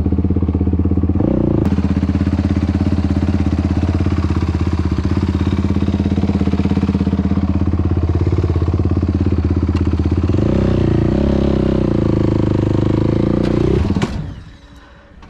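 Yamaha YFZ450R's single-cylinder four-stroke engine running through a Rossier R5 aftermarket exhaust. It holds steady, rises in revs about ten seconds in, then cuts off abruptly a little before the end, followed by a few knocks and clatter. The cut-off is the engine stalling: it was braked in gear without the clutch pulled in.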